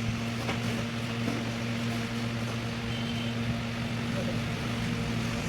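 A steady machine hum: a motor or engine running at a constant pitch, with noise from the workshop around it.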